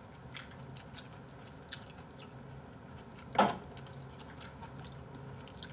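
A person chewing food close to the microphone, with a few small clicks and one louder sharp click about three and a half seconds in.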